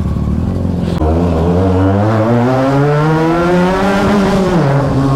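Benelli TNT 300's parallel-twin engine under way. After about a second the revs climb steadily for some three seconds, then fall off sharply near the end.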